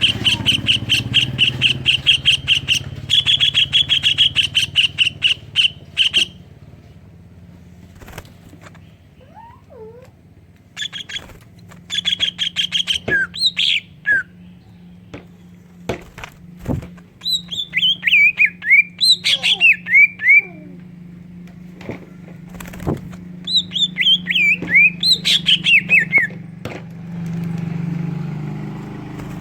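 Cucak ijo (green leafbird) singing a song filled with mimicked tengkek udang (kingfisher) calls. It delivers fast runs of sharp repeated notes, then series of falling chirps, with short pauses between phrases.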